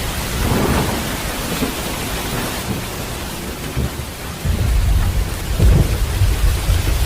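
Heavy rain falling steadily, with low thunder rumbling; the rumble grows louder about four and a half seconds in.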